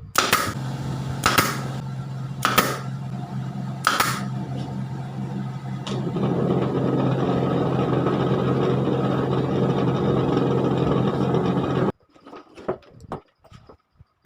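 An electric power tool running, with four short sharp bursts in the first four seconds, then running steadily and a little louder until it cuts off suddenly about twelve seconds in.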